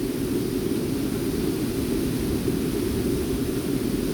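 Steady rush of water from a waterfall, a continuous noise without breaks.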